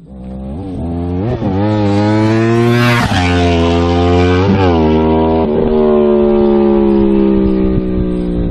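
Sport bike's engine accelerating hard, with quick gear changes roughly once a second that briefly break the exhaust note. It is loudest about three seconds in, then its pitch sinks slowly and it fades as it moves away.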